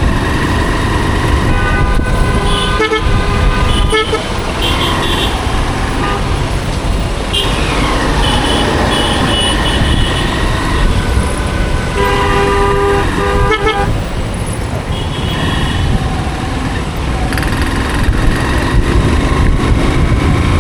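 Vehicle horns toot several times in traffic over a constant low rumble of riding noise from a moving motorcycle; the strongest horn sounds a little past the middle.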